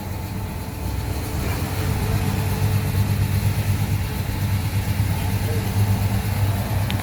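A car engine idling, a steady low-pitched sound that gets louder about a second in.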